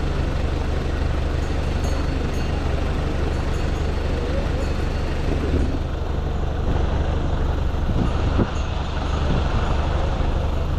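Street traffic noise: a steady low engine rumble of vehicles and motorbikes, with a brief louder sound about eight seconds in.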